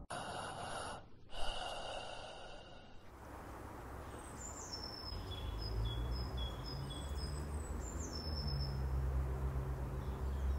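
Quiet woodland ambience: a bird gives a run of short, high chirps through the middle, over a low steady hum. It follows a brief noisy sound in the first few seconds that breaks off about a second in and stops about three seconds in.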